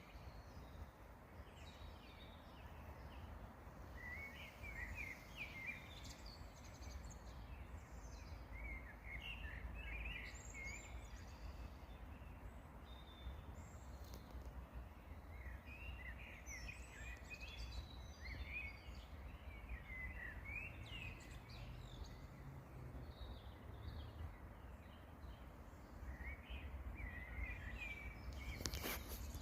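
Songbirds singing outdoors in scattered bursts of quick, twittering chirps, with pauses of a few seconds between phrases. A steady low rumble runs underneath.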